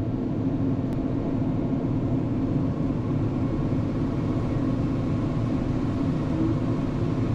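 Bergmann C912s tracked dump truck's diesel engine running steadily under load as the truck moves off, heard from inside the cab as an even droning hum.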